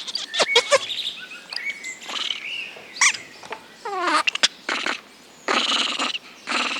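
A string of short animal calls: chirps and squeaks, a quick run of falling chirps about four seconds in, then a few short harsh calls near the end.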